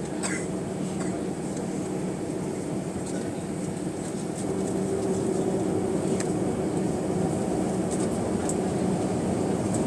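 Cabin drone of an Airbus A320's twin CFM56-5A engines, heard from the rear of the cabin. It is steady, with a low hum, and grows louder about four and a half seconds in as a higher engine tone comes in.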